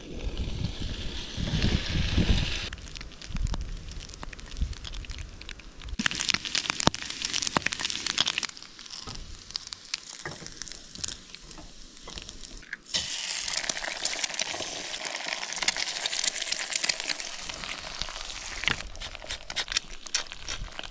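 Food frying and sizzling in a hot pan. The crackly sizzle comes in spells of a few seconds, and there are scattered clicks and knocks between them.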